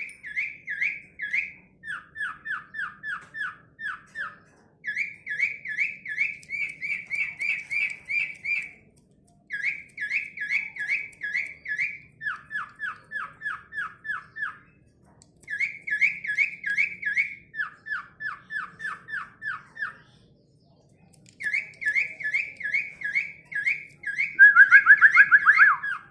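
A jalak suren (Asian pied starling) calling in rapid runs of repeated whistled notes, about four or five a second, each run switching between a higher and a lower series, with short pauses between phrases; the run near the end is the loudest.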